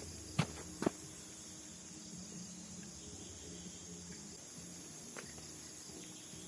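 Steady high-pitched drone of forest insects, with two sharp knocks within the first second and a fainter one about five seconds in.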